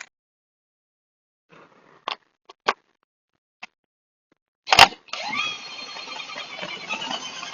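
A few light metallic clicks and knocks, then one loud knock, then a motor spins up with a quick rise in pitch and keeps running steadily.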